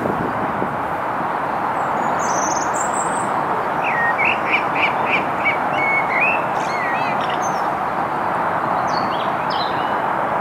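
Small birds calling over a steady rush of wind: a quick run of about half a dozen repeated chirps about four seconds in, with a few thin, higher calls earlier and near the end.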